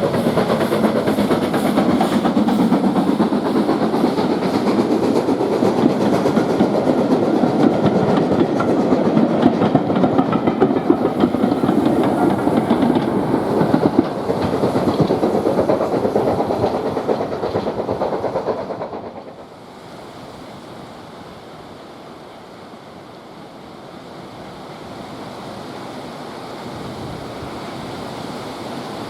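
Steam-hauled train passing close by, its coaches' wheels clicking over the rail joints. About nineteen seconds in the sound drops sharply, leaving a quieter steady rushing noise.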